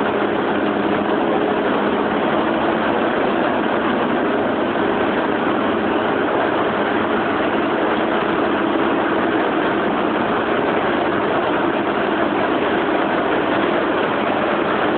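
Train at a station platform: a steady mechanical hum and rumble with a few low steady tones, unchanging in loudness.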